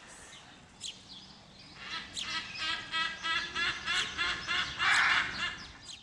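Birds calling: a fast run of short chirping calls, about four a second, starting about two seconds in, with a loud harsh call near the end.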